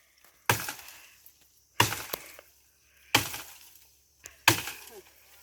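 Four chopping blows into a thick log, about one every 1.3 seconds, each a sharp hit that dies away over about half a second.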